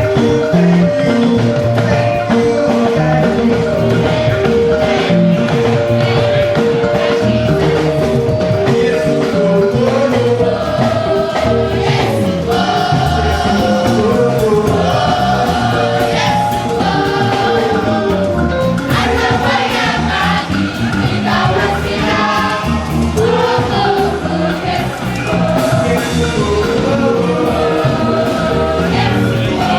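Gospel music with a choir singing over instruments and a steady beat.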